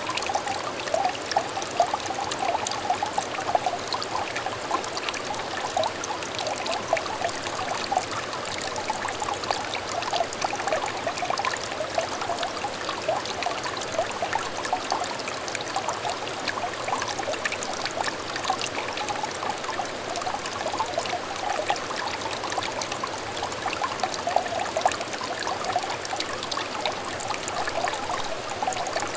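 A small shallow stream trickling and babbling over stones, a steady flow of many small bubbling plinks and gurgles.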